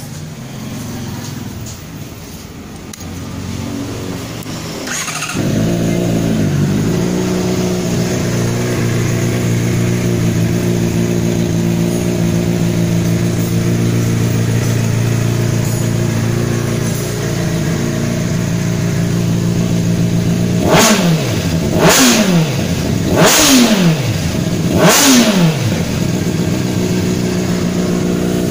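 Honda CBR600RR inline-four idling through an aftermarket Abenk muffler. The engine note steps up and steadies about five seconds in. Later come four quick throttle blips in a row, each rising sharply and falling back to idle.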